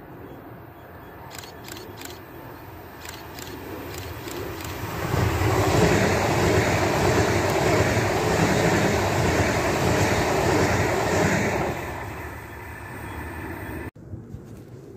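S-Bahn Rhein-Main electric multiple unit, two sets coupled, passing close by. It approaches with a few sharp clicks, then runs loud with wheel and running noise for about six seconds, and fades as it goes by. The sound cuts off suddenly near the end.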